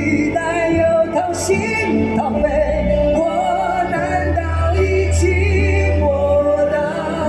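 Live band playing a pop ballad, with male voices singing long held, wavering notes over it.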